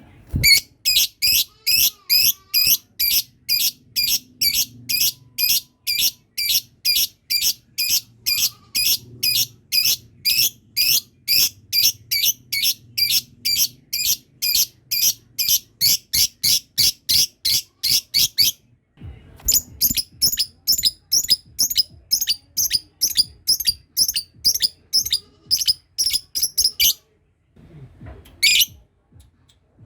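Lovebird giving a long 'ngekek': a rapid, even series of shrill chattering chirps, about three a second. It breaks off for about a second after some eighteen seconds, chatters again for about eight seconds, and ends with a single call.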